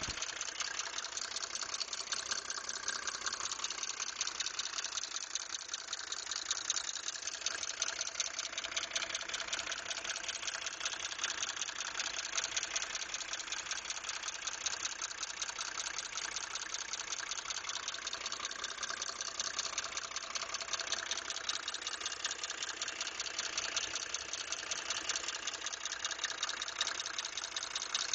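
Mercedes-Benz OM603 turbo-diesel straight-six running steadily at idle with a fast, even diesel clatter, carrying the high-pitched sound whose cause is being diagnosed.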